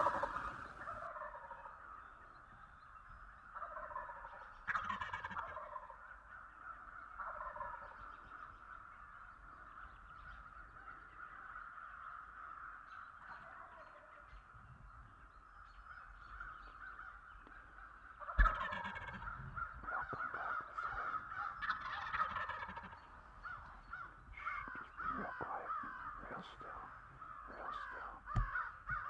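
Wild turkeys gobbling again and again, loud gobbles coming every few seconds over a steady background of calling from the flock.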